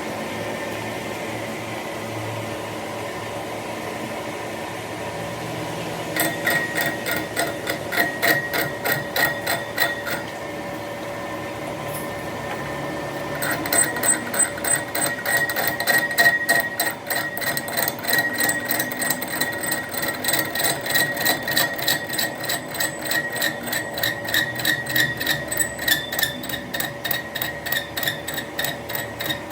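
Rapid, regular metal strikes, about four a second with a ringing note, start about six seconds in over a steady machine hum, pause briefly near the middle, then carry on.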